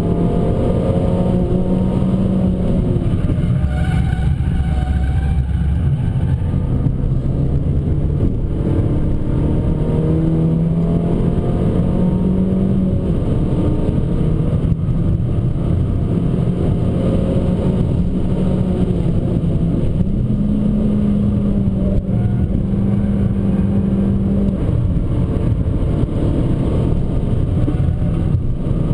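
Abarth 595 Competizione's turbocharged 1.4-litre four-cylinder engine running hard at speed. Its pitch climbs repeatedly under acceleration and drops back at each gear change or lift.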